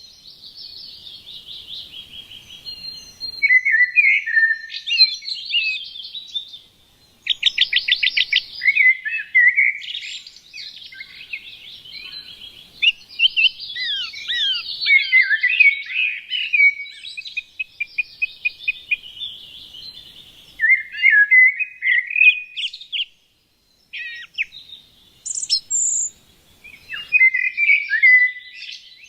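Small songbirds chirping and singing in a busy chorus of quick trills and short falling notes, broken by brief pauses twice.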